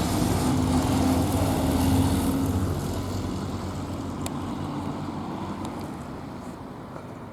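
A car engine running steadily at low revs, growing fainter over several seconds as the car moves away.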